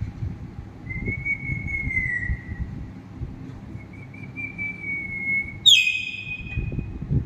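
Two long, even whistles, the first falling slightly at its end, then a short, harsh squawk from a pet green parrot about six seconds in.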